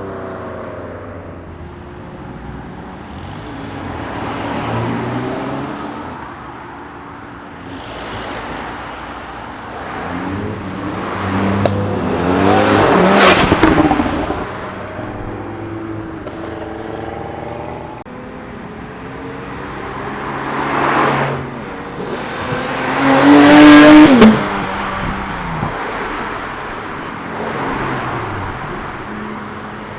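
Cars accelerating past one after another, engines revving up and fading away. The two loudest pass close by about 13 and 24 seconds in.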